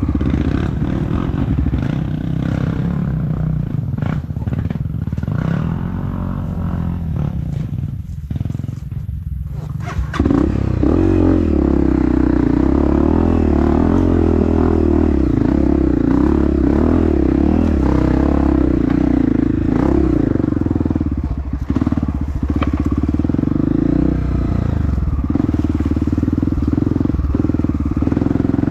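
Honda CRF dirt bike's four-stroke engine running under varying throttle, easing off and quieter around eight to ten seconds in, then pulling loud and steady for the rest, with a brief drop in throttle near the middle.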